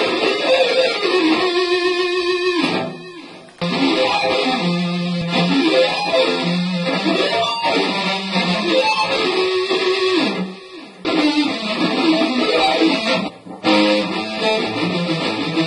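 Distorted electric guitar playing fast shred lead runs. A held, wavering note comes about two seconds in, and the playing breaks off briefly about three, ten and a half, and thirteen and a half seconds in.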